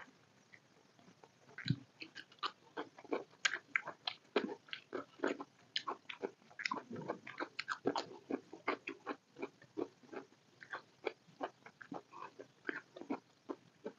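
Close-miked chewing of rice and chicken curry: wet mouth clicks and smacks coming irregularly, several a second.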